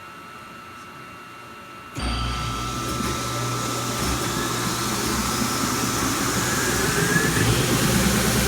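An 18 hp three-phase wide belt sander running off a rotary phase converter switches on about two seconds in with a sudden loud hum. It spins up, with a whine rising in pitch and the noise growing louder as it comes to speed.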